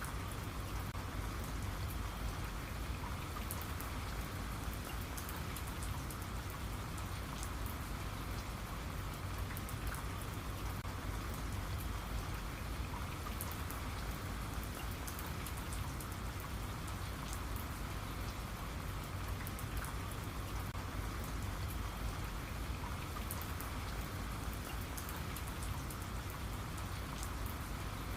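Steady rain falling, with many fine drops pattering on a surface.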